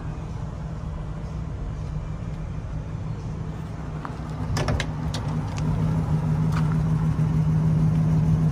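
A car engine idling with a steady low hum that grows louder about six seconds in. A few sharp clicks come about four and a half to five seconds in.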